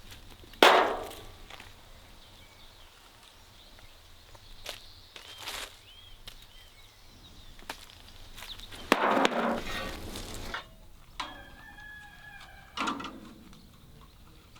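Axe splitting firewood: three separate chopping strikes, each a sharp crack that trails off, the first the loudest. A rooster crows once between the last two strikes, and small birds chirp.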